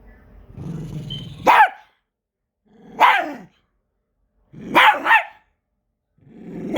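Pet dog growling low and breaking into a bark, then barking again, then a quick double bark, with another growl building near the end: playful, provoked barking at someone teasing it.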